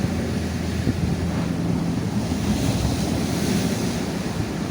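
Rough sea surf washing steadily over the shore rocks, with wind buffeting the microphone and a steady low hum underneath.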